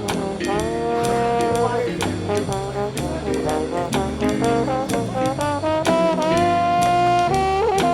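Brass band music: trombones and trumpets playing a jazz tune over a bass line and drum beat, with long held horn notes about a second in and again from about six seconds to just past seven.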